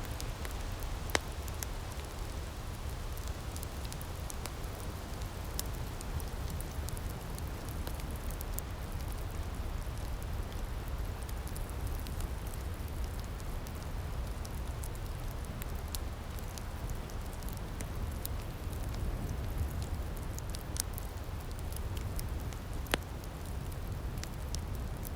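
Wood fire in an outdoor firepit crackling, with many small scattered pops over a steady low rumble; two sharper pops stand out, about a second in and near the end.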